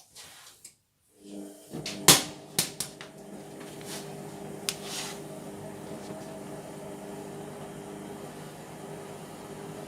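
Indesit MTWC71252WUK washing machine in its Cotton 30 wash, the drum motor starting again after a short pause. A few sharp clunks come in the first seconds, the loudest about two seconds in, then the motor settles into a steady hum as the drum turns.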